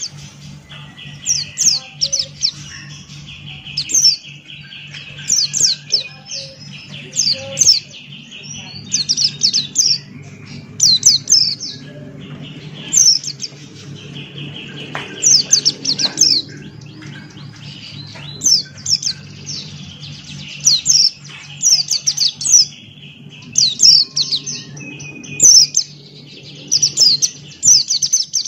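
A white-eye (pleci Buxtoni) singing hard in quick bursts of high, rapidly falling notes, about one burst a second. Underneath run a continuous high buzzing and a steady low hum.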